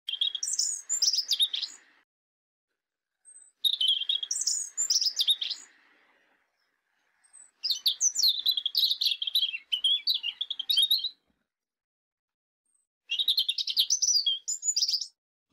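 A songbird singing four phrases of quick, high chirps and warbles, each two to three seconds long, with silence between them.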